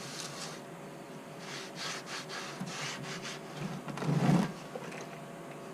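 Irregular rubbing strokes of spilled engine oil being scrubbed and wiped off a bare concrete floor, loosened with brake cleaner, with a louder bump about four seconds in.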